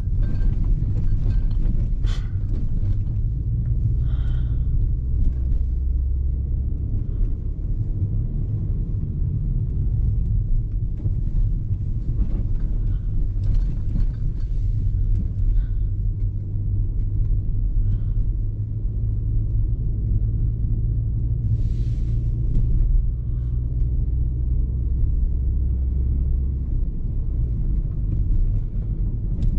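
A car's engine and tyres make a steady low rumble, heard from inside the cabin while driving, with a few faint clicks and taps.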